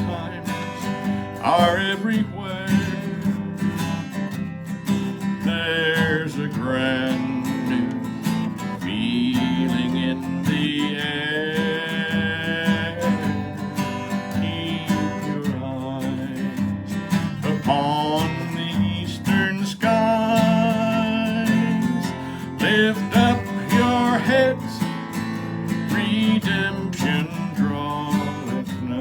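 Acoustic guitar music with a gliding melody line over a steady low accompaniment: an instrumental break in a gospel song.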